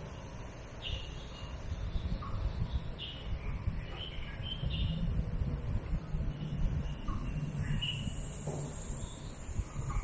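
Birds calling: short chirps repeated every second or so, over a steady low rumble.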